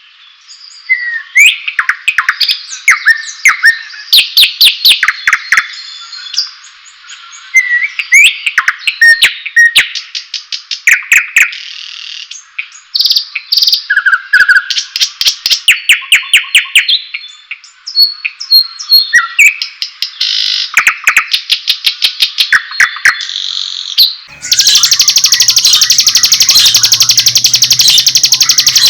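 White-rumped shama (murai batu) singing a loud, varied song of clear whistled notes and rapid trills in short phrases. About four-fifths of the way through, the song gives way to a dense, harsh, unbroken rapid rattle.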